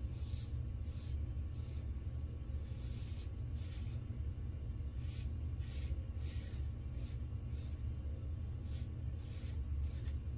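Safety razor scraping through lathered stubble in short, quick strokes, about fifteen in a row with brief gaps, over a steady low hum. This is an across-the-grain pass.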